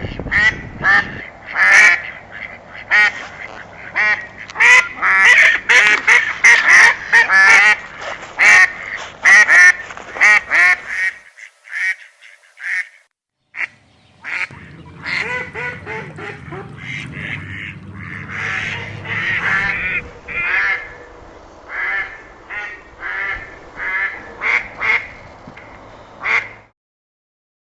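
Ducks quacking: many short, harsh quacks in quick, overlapping runs. They break off briefly about halfway through, start again, and stop shortly before the end.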